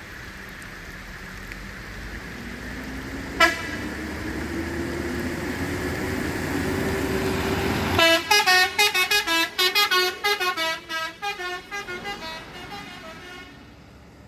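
A heavy vehicle's engine rises steadily in pitch as it pulls harder, with one short horn toot about three seconds in. Just past halfway a musical multi-tone horn plays a quick tune of about twenty jumping notes that stops a second before the end.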